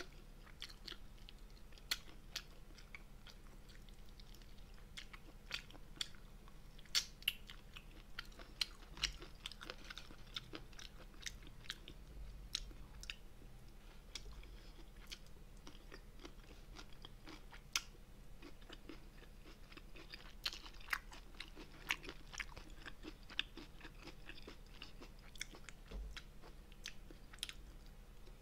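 Close-miked chewing and eating of braised spicy monkfish (agujjim): faint, irregular wet clicks and smacks of the mouth, a few at a time, the sharpest around a quarter of the way in.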